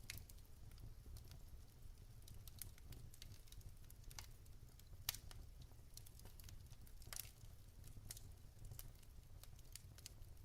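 Wood fire crackling in a fireplace: quiet, irregular crackles and pops of burning logs over a low steady rumble, with the sharpest pop about five seconds in.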